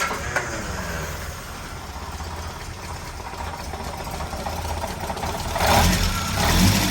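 Triumph Spitfire 1500 four-cylinder engine running just after starting, settling to idle, with two brief louder swells near the end. The owner says this engine rattles at low idle below about 900 RPM but runs fine at 1,000 RPM and above.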